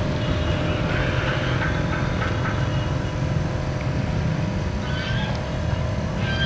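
Steady low rumble of a running motor vehicle, with a constant hum and a few short high chirps over it.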